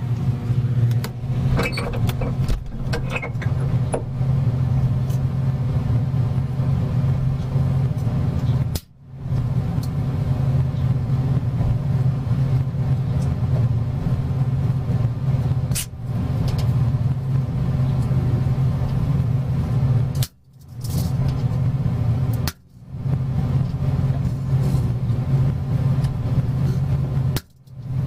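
Microwave oven running with a steady, loud electrical hum. The hum cuts out abruptly for a moment several times.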